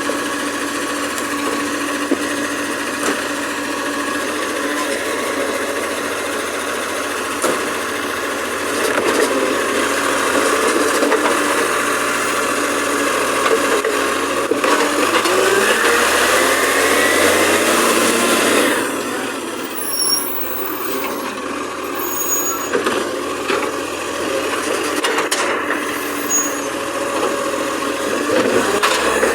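Garbage truck running close by, its engine note steady, then a rising whine from about 14 seconds in that cuts off suddenly a few seconds later.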